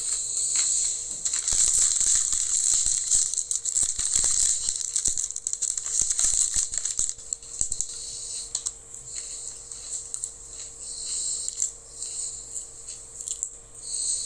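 An Oreo Birthday Cake Flavor Creme cookie being crunched and chewed: crisp crackling clicks, densest in the first half and thinning out later.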